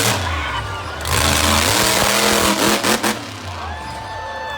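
Monster truck engine revving hard in surges, its pitch climbing and falling, then easing off about three seconds in.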